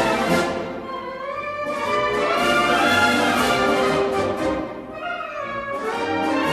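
Orchestral music with prominent brass playing sustained chords that swell and change.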